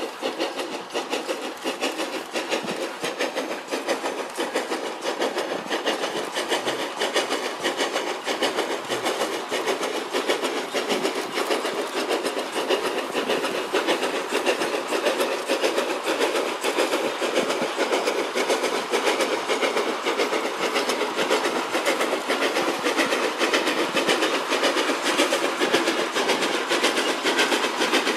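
Narrow-gauge train hauled by a C2 steam locomotive running by, with a steady fast clatter of wheels and rolling stock over a rushing noise.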